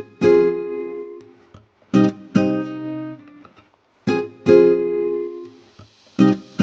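Music on a plucked string instrument, guitar-like: chords struck in pairs about every two seconds, each ringing and fading away.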